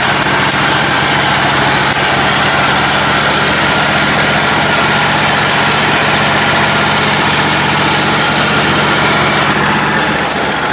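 Engine of a lifted, modified riding lawn tractor running steadily at a constant speed, its pitch unchanging.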